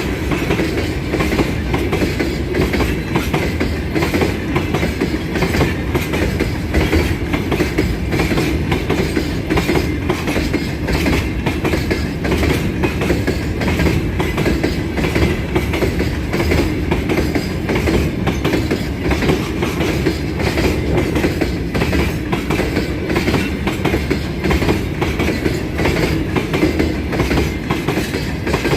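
Freight train rolling past, its wagon wheels clicking steadily over the rail joints with a continuous rumble.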